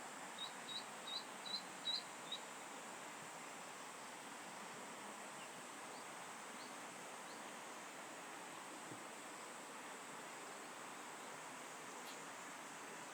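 Eastern spot-billed duckling peeping: a quick run of six short, high peeps, two or three a second, near the start, then a few fainter peeps a few seconds later, over a steady background hiss.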